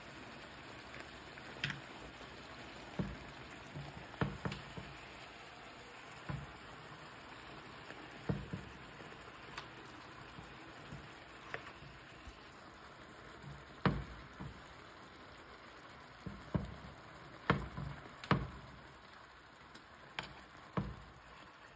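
Chicken breast steaks frying in oil in a pan, a steady sizzle with irregular clicks and taps as a metal fork lifts and turns the pieces against the pan.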